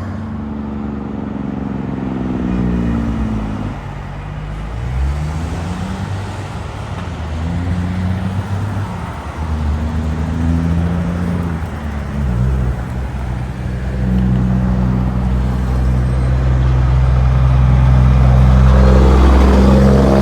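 Truck engines driving by on a road, their pitch falling and rising in steps as they slow, shift gears and pull away. The sound builds to its loudest near the end, as a vehicle passes close.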